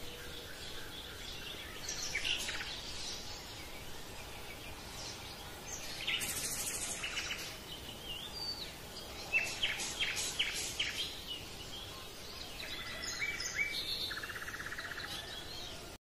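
Songbirds chirping and calling, several short chirps and quick sweeps over a steady hiss, with a fast buzzy trill near the end.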